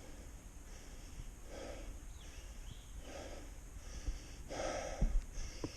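A man breathing heavily, a series of loud breaths about one every second and a half, with a couple of short thumps near the end.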